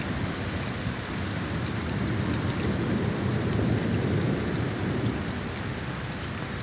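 Heavy thunderstorm rain pouring down steadily, with a low rumble that swells through the middle and eases off again.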